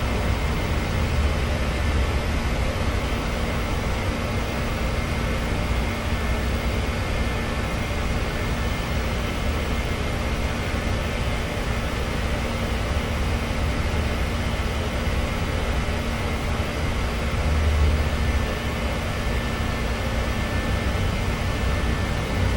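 Steady mechanical drone: a constant low rumble and hiss with faint steady hum tones running through it.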